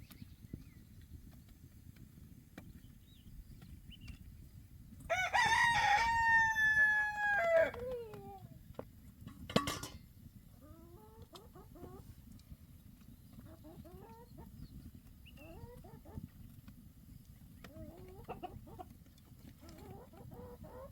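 A rooster crows once, about five seconds in: a long loud call that holds its pitch and then drops at the end. A sharp knock follows, then faint short clucking calls from chickens over a low steady background rumble.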